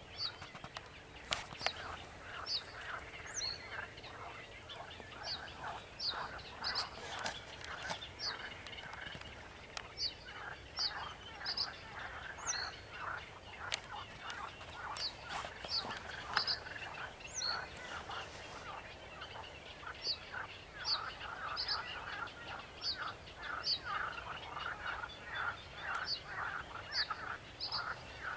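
Sedge warbler singing with another bird: a long run of quick, repeated chattering notes, with short high notes again and again.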